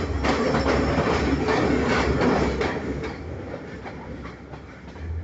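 Udarata Menike passenger train running on the rails, its wheels clattering over the rail joints, the noise dying away about three seconds in.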